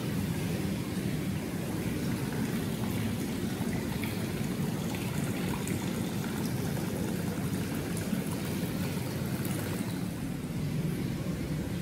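Steady rush of hot-spring bath water flowing and churning in a tiled bath hall, an even noise that does not change.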